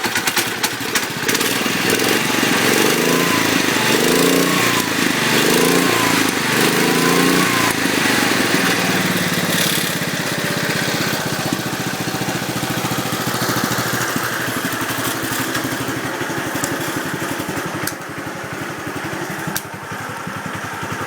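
1972 IH Cub Cadet 128 garden tractor's single-cylinder Kohler engine running cold, revved up and down about three times over the first eight seconds, then settling to a steady idle.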